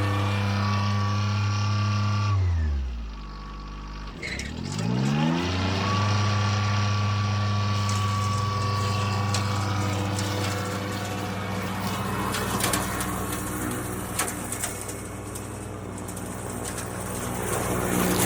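Kioti CK2610 compact tractor's diesel engine running steadily; about two seconds in its speed drops sharply, then climbs back up and holds, with cracking and snapping sounds over it near the end.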